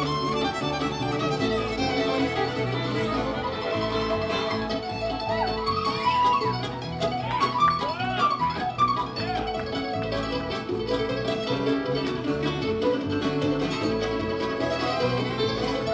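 Live bluegrass band playing an instrumental break, with a fiddle prominent over guitar and mandolin, steady and unbroken.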